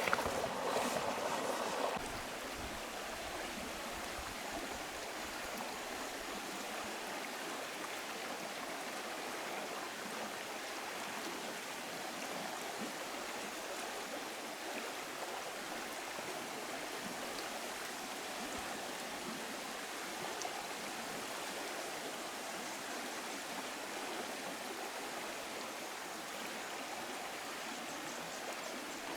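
Steady rush of flowing stream water, an even hiss with no break; something louder stirs over it in the first two seconds.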